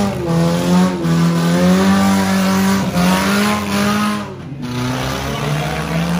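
Four-cylinder demolition derby cars' engines revving hard as the cars ram and push each other, pitch rising and falling, with a brief dip in level about four seconds in.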